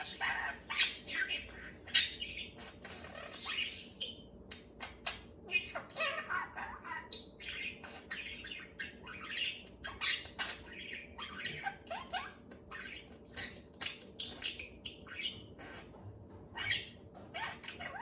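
Pet budgerigar chattering and warbling to himself: a continuous stream of rapid chirps, clicks and squawks.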